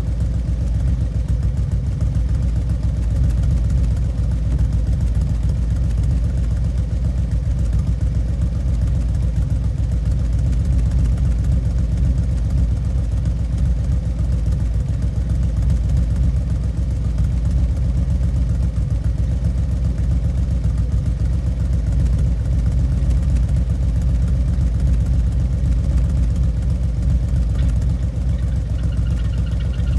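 2013 Harley-Davidson Road Glide's Twin Cam 103 V-twin idling steadily through an S&S Sidewinder 2-into-1 exhaust.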